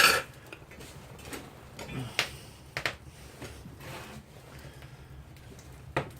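A few sharp cracks and knocks from dry twig kindling at a campfire being lit, the loudest right at the start and quieter ones about two and three seconds in and near the end.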